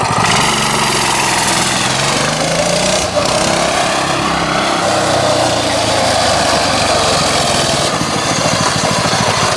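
Coleman mini bike's small single-cylinder four-stroke engine running just after starting, its pitch rising and falling as the throttle is blipped.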